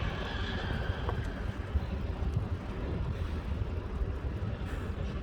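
Wind buffeting the microphone while cycling, a steady, fluttering low rumble with rolling road noise underneath.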